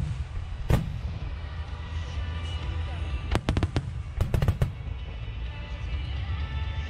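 Fireworks finale: aerial shells bursting over a continuous low rumble of distant explosions. One loud boom comes about a second in, and quick volleys of sharp cracks follow around three and a half to four and a half seconds. The bursts echo.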